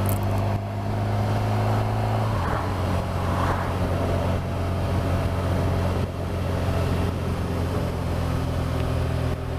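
Honda Crosstourer's V4 engine running steadily while the motorcycle is ridden along the road, with wind noise. Its note drops a little about two seconds in, then holds steady.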